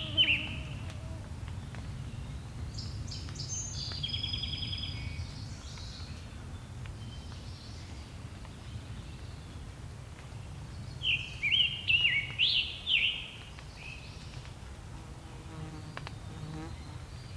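Songbirds singing in woodland: a loud phrase of several quick, slurred notes at the start and again about eleven seconds in, and a higher, thinner phrase with short trills about three seconds in, over a low steady buzz.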